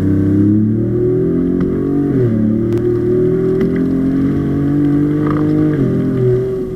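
Tuned Ford Raptor with a twin-turbo V6, Corsa Extreme exhaust and downpipes, accelerating hard. The engine note climbs in pitch, drops at an upshift about two seconds in, climbs again, and drops at a second upshift near the end.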